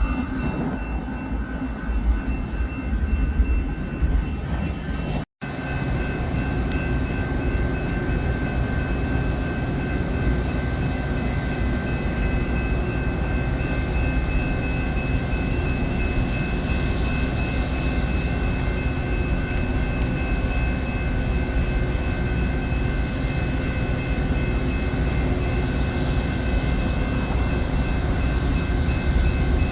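A train rolling by with a steady low rumble, and thin steady high tones over it. The sound drops out for an instant about five seconds in.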